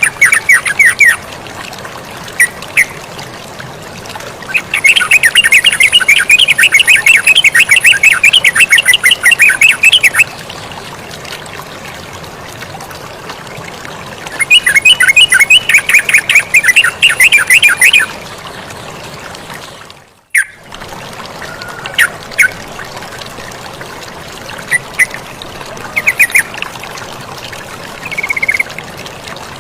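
Yellow-vented bulbul (terucukan) singing: two long runs of rapid, repeated chattering notes, with scattered single calls between them. A steady sound of running water lies under the song throughout, and all sound drops out for a moment about two-thirds of the way through.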